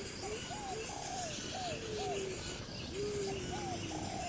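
A bird calling the same low, whistled phrase twice, about three seconds apart: a long slightly falling note, then a quick run of short rising-and-falling notes.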